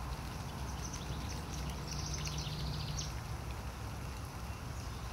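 Steady rain hiss over a low rumble, with a bird chirping a few times around the middle.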